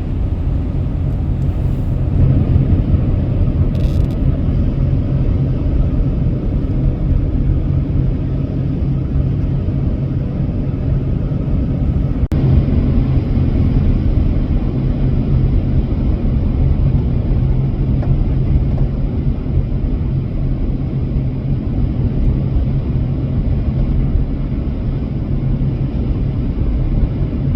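Steady low rumble of a car's tyres and engine, heard from inside the cabin while driving along a highway.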